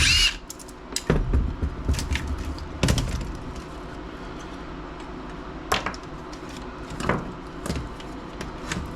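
Irregular clicks and knocks of plastic laptop casing parts being handled and pried apart, with a brief high squeak right at the start.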